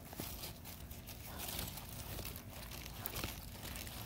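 Dry garlic leaves and papery bulb wrappers rustling and crackling, with soil crumbling, as garlic plants are pulled and handled; a run of irregular small crackles and ticks.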